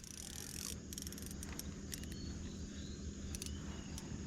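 Faint outdoor ambience with insects: a steady low hum, a few faint short high chirps, and a quick run of soft ticks just under a second in.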